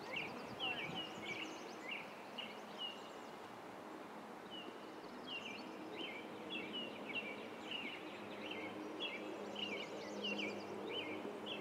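A bird repeatedly giving short chirps, several a second, in a run over the first few seconds and again from about halfway through, over a faint steady outdoor background hiss.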